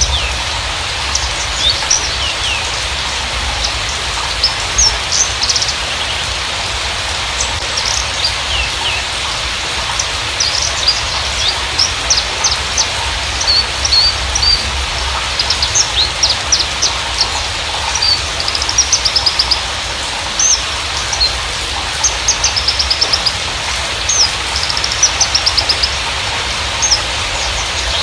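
Javan bushlark (Mirafra javanica parva) singing: a running string of short, high chirps and quick trills, over a steady rain-like hiss.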